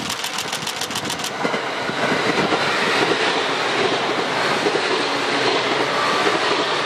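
Electric commuter train passing close by. Its running noise builds over the first two or three seconds and stays loud as the cars go past.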